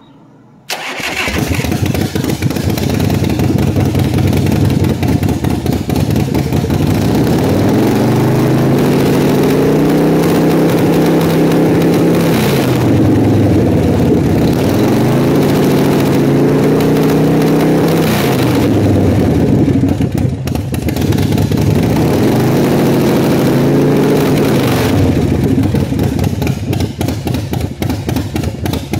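Motorcycle engine starting about a second in and running, then revved up and held at about 2,000 rpm three times, easing off briefly between holds and dropping back lower near the end.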